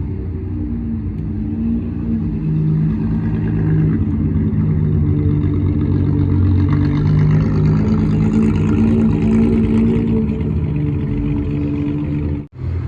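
Car engines running, with some revving.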